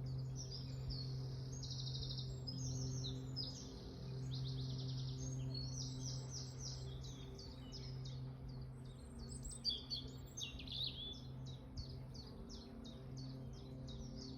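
Songbirds singing: a busy run of high chirps, fast trills and rapidly repeated notes. A steady low hum runs underneath.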